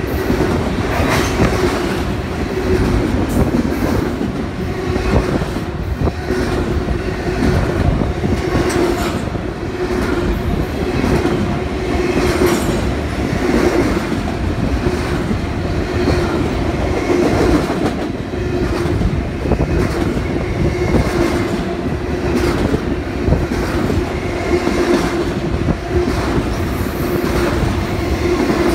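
Double-stack container freight train passing at speed: a steady loud rumble of the cars rolling by, with repeated wheel clacks over the rail joints and a steady humming tone from the wheels on the rails.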